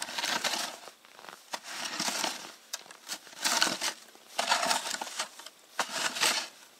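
Snow shovel digging and scraping in cold snow: about five crunching strokes, roughly a second apart, as a patch is cleared for a fire pit.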